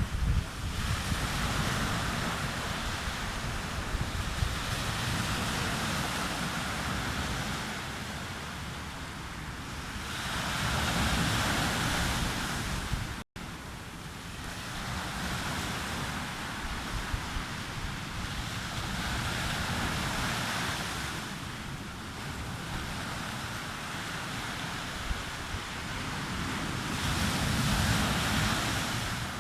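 Sea waves breaking and washing up the beach, the surf swelling and ebbing every few seconds, with wind buffeting the microphone as a low rumble. A brief dropout about halfway through.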